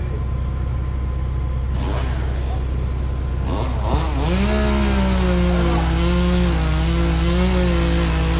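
Chainsaw revving up about halfway through, then held at high, fairly steady revs with small wobbles. A low, steady engine drone runs underneath throughout.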